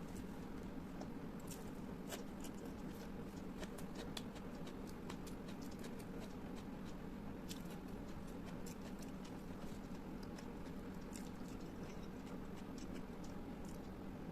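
Close-miked eating: mouth sounds and chewing, heard as many small, irregular wet clicks and smacks over a steady low hum.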